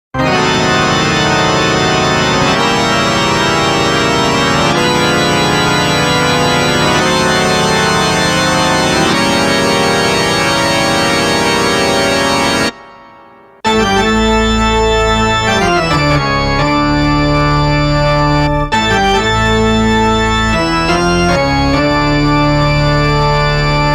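Scary music sound effect of sustained organ chords: one dense held chord for about thirteen seconds that cuts off, then after about a second a second passage with notes stepping downward.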